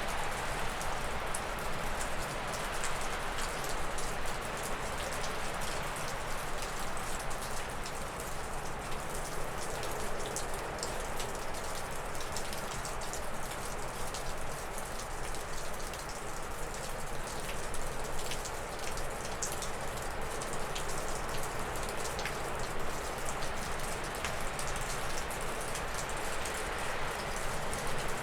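Wind rushing steadily through spruce and birch trees, with many sharp drips of snowmelt falling off a roof.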